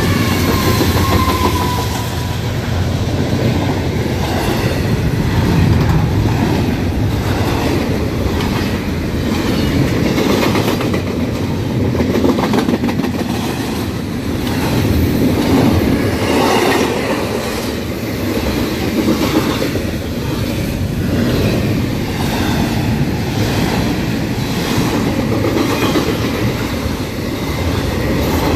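Freight train, likely an intermodal, passing close at a grade crossing: steady rumble of the cars with repeated clacking of the wheels over rail joints. A falling tone dies away in the first second.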